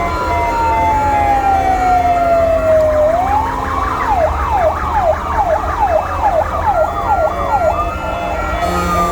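Fire truck sirens sounding together. One electronic siren makes a slow falling wail, switches a few seconds in to a fast yelp of rising-and-falling sweeps about twice a second, then goes back to the slow wail near the end. Other sirens hold alternating tones over a steady low engine rumble.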